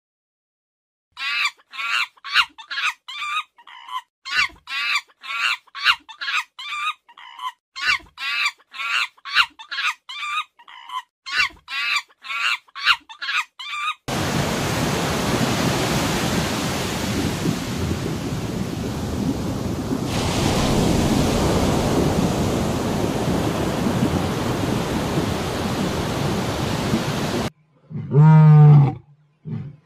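A long run of short, high, chirping animal calls, about two a second. About halfway through it gives way to a steady rush of underwater noise. Near the end a lion roars loudly.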